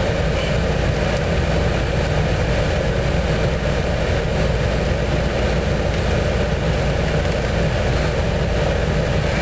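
1990 Chevrolet Suburban's engine idling steadily, heard from inside the cab.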